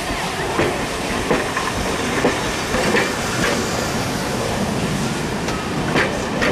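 Passenger coaches of a train rolling past: a steady rumble of wheels on rail, with irregular sharp clicks as the wheels cross rail joints.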